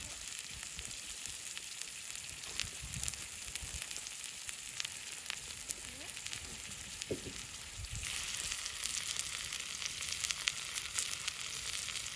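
Food sizzling as it cooks on a barbecue, a steady hiss with scattered small pops; the sizzle grows louder about eight seconds in.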